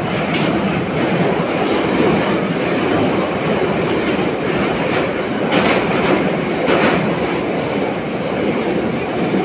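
Inside an 81-717.5 metro car running through the tunnel at speed: a steady, loud rumble of wheels on rail and tunnel noise. A few brief louder knocks, twice in quick succession a little past the middle, come from wheels passing over rail joints.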